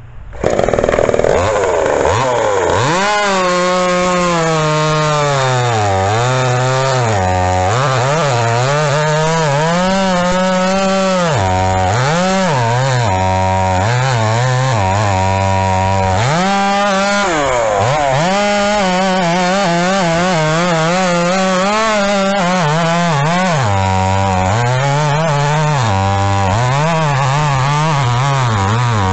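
Two-stroke Pinkway chainsaw with a 24-inch bar and chain cutting wood. It comes in loud about half a second in, then its pitch drops again and again as the engine bogs under the cut, and climbs back to full revs between cuts.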